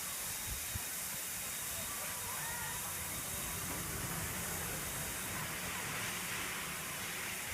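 Steady outdoor hiss of water park ambience, with faint distant voices and two soft low bumps about half a second in.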